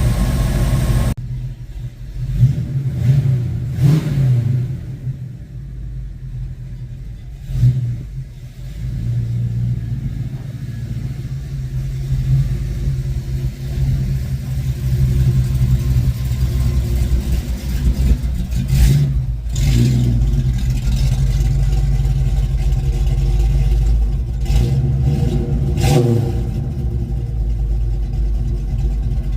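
1972 Ford Mustang Mach 1's V8, fitted with a Crane 2040 cam and a Black Widow Venom muffler on a single 3-inch exhaust, running as the car is driven. The engine note rises and falls with the throttle, with a few short knocks.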